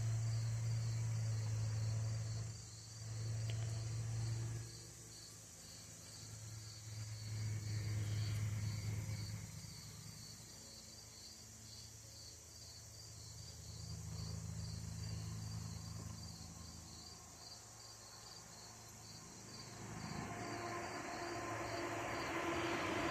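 Crickets chirping steadily, a few chirps a second, over a low hum that swells and fades several times. Near the end a broader rush of noise builds up.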